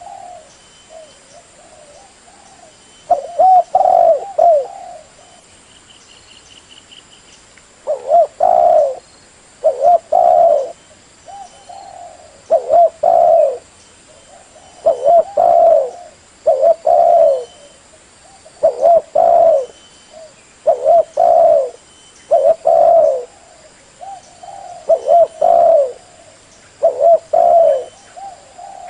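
Spotted dove (tekukur) cooing over and over: short low phrases of two or three notes, one every two seconds or so, after a pause of a few seconds near the start.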